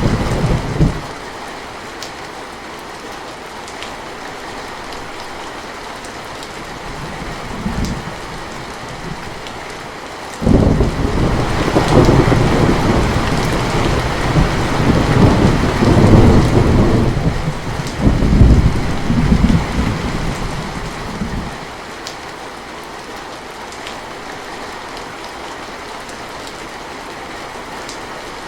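Steady rain with thunder. A rumble dies away about a second in and a faint one swells near eight seconds. About ten seconds in a loud thunderclap breaks suddenly and rolls on for some eleven seconds, swelling twice more before it fades back to the rain.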